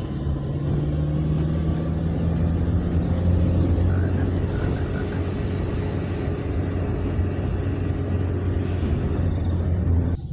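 Engine and road noise heard inside a moving ambulance's cabin: a steady low drone that drops off abruptly near the end.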